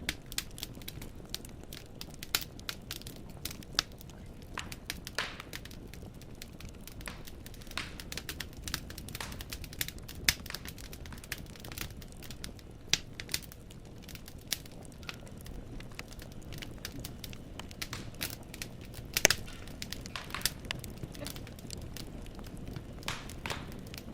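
Wood fire in a fireplace crackling, with irregular sharp pops and snaps of burning logs over a soft steady rumble of the flames; one pop about 19 seconds in is louder than the rest.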